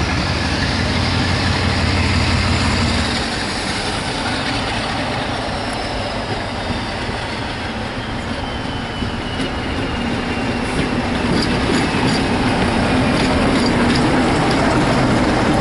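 Diesel-hauled passenger train passing close by. A low engine drone drops away about three seconds in, and a high whine falls slowly in pitch. The coaches' wheels then rumble and click on the rails, growing louder near the end.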